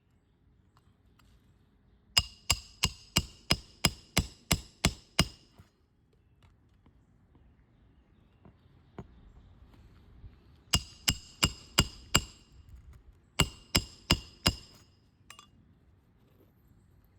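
Roofing hammer striking a roof snake to drive nails up under a 3-tab asphalt shingle: three runs of quick, ringing metal-on-metal strikes, about three a second, the first of about ten blows and the next two of about five each.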